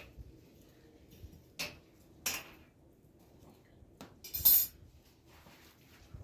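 A few separate clinks and knocks of kitchenware, with the loudest, a short clattering rattle, about four and a half seconds in.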